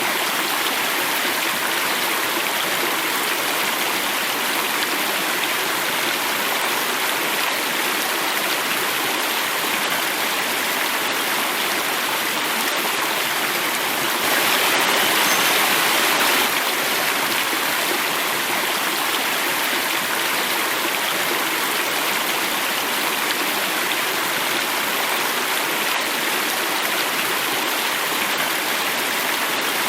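Water flowing and falling over a small cascade, a steady rushing. It grows louder and brighter for about two seconds halfway through.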